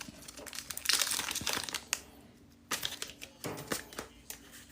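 Foil Pokémon booster-pack wrappers crinkling as packs are handled and opened, with cards rustling: a longer rustle about a second in, then shorter crinkles near the end.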